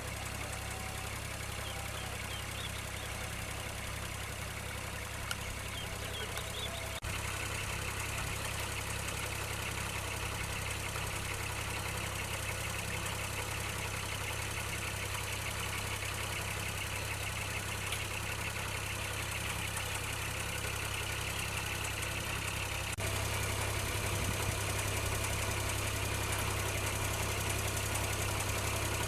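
Diesel engine of a Kubota DC-35 combine harvester running steadily, with a low, even drone. It steps up abruptly in loudness about a quarter of the way in, and again near the end.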